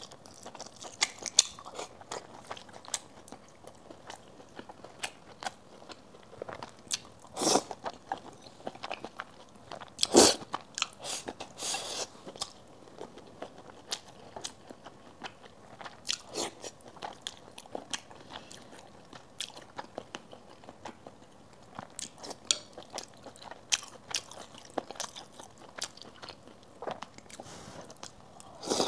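Close-miked eating sounds: a person chewing and biting braised pork and rice, with many short sharp clicks and smacks scattered through, the loudest about ten seconds in.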